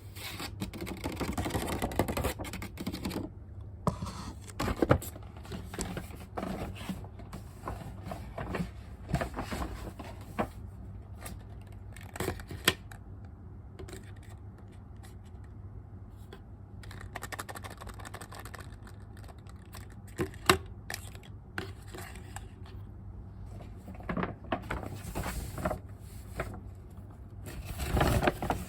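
Unboxing sounds: packaging being handled, with irregular rustling and scraping and scattered sharp taps and clicks over a faint steady hum.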